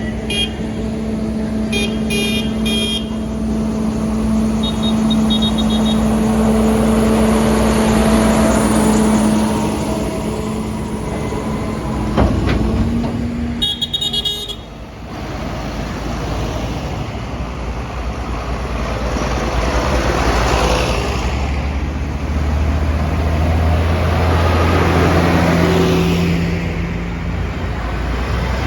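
Tractor engines running as a convoy passes, with horns tooting in short bursts a few times, around two, five and fourteen seconds in. The engine rumble swells again near the end.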